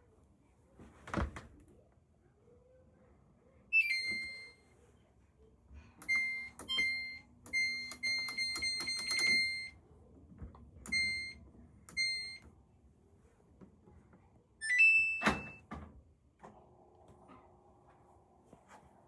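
Samsung washing machine's control panel beeping as its buttons are pressed: short high beeps, singly and in quick runs, with a sharp thud about a second in and another near the end. A steady low hum starts a few seconds before the end.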